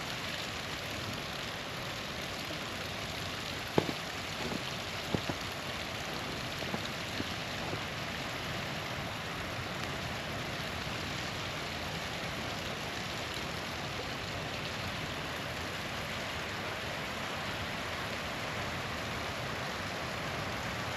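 Small waterfall's steady rush of water, with a few sharp pops and crackles from a wood campfire between about four and eight seconds in; the first pop is the loudest.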